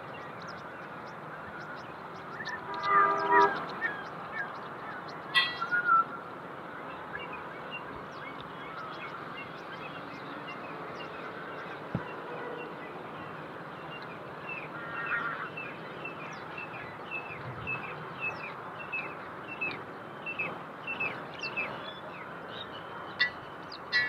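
Birds calling over a steady outdoor background: a couple of louder calls in the first few seconds, then a long run of short, high, falling chirps repeated about once or twice a second.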